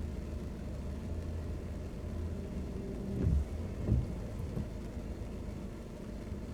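Steady low road and engine rumble of a car driving in the rain, heard inside the cabin, with two short low thumps about three and four seconds in.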